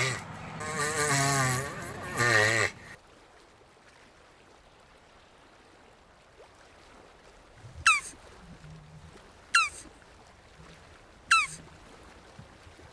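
Jabuti tortoise vocalising: a drawn-out, wavering groaning call for the first few seconds. Then quiet, with faint low clucks and four short, sharp high chirps that fall in pitch, each about a second and a half to two seconds apart.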